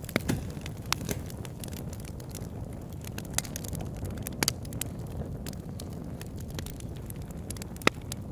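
Wood fire crackling in a fireplace: irregular sharp pops and snaps over a steady low rumble of burning, with the loudest pop near the end.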